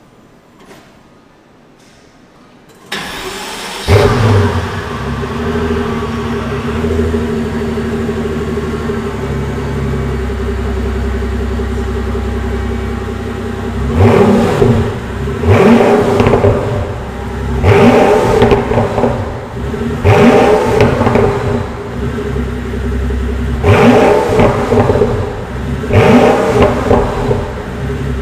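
Pagani Huayra Roadster's twin-turbo V12 being started, catching with a sharp flare about three to four seconds in and then settling to a steady idle. From about halfway it is blipped six times, each rev rising and falling back to idle.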